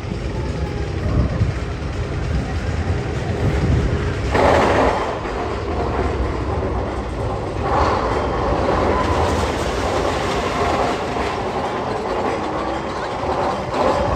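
Magnum XL 200 steel roller coaster train rumbling along its track, with two sudden loud rushes about four seconds in and near the middle.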